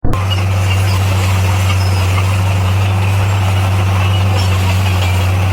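Heavy diesel earthmoving machine engine running steadily at a constant low pitch, with a hissing wash above it.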